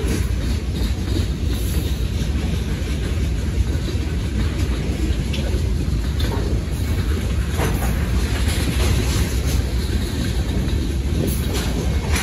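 Freight train cars rolling past a grade crossing: a steady low rumble of steel wheels on the rails, with a few irregular sharp clicks from the wheels.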